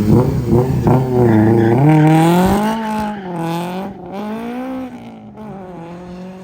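A car engine revving hard under full acceleration, its pitch climbing and dropping back several times as it shifts up through the gears. It fades away over the last couple of seconds.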